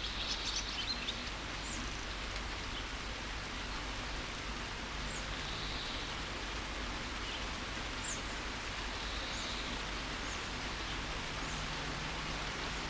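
Steady rain falling, with birds chirping: a quick flurry of chirps in the first second, then single short chirps every few seconds.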